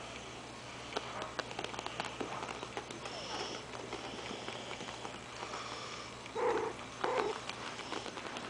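Morkie puppies at play: scattered small clicks and rustles of paws and bodies, with two short puppy vocal sounds about six and a half and seven seconds in.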